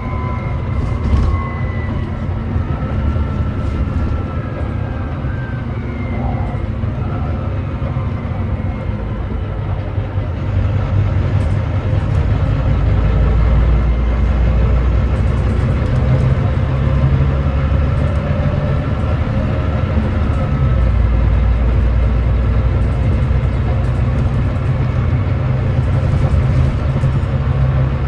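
Volvo D9B 9.3-litre diesel engine of a Volvo B9TL double-decker bus, heard on board, running and then pulling hard under load on a hill climb. About ten seconds in the engine grows louder and deeper and holds there. In the first few seconds a faint whine glides down in pitch.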